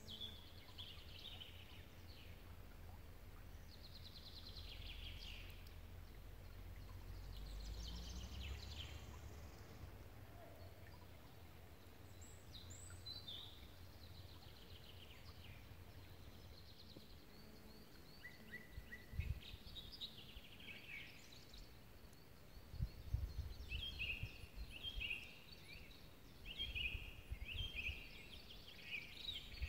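Songbirds singing in short, scattered chirping phrases, with a quicker run of repeated notes over the last several seconds. Underneath is a low rumble with a few low thumps.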